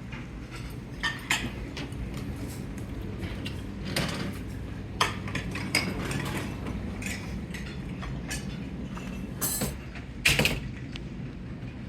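Airport terminal ambience: a steady low rumble and hum with scattered clinks and knocks, the sharpest about ten seconds in.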